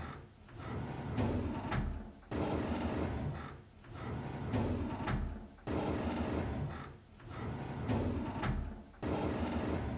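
A drawer sliding open, a noisy rumbling slide, repeated about three times as a loop, each pass starting abruptly and fading out.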